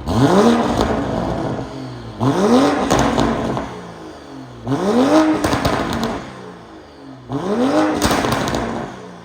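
BMW M340i's turbocharged 3.0-litre inline-six revved four times through an aftermarket HMD titanium valved exhaust, each rev rising quickly and falling away with crackles and pops on the overrun.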